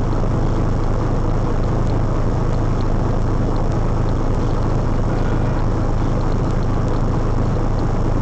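Steady, loud rushing noise with a low hum underneath, holding level without a break.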